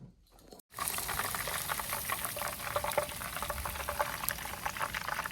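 Water running in a steady hiss, starting abruptly about a second in.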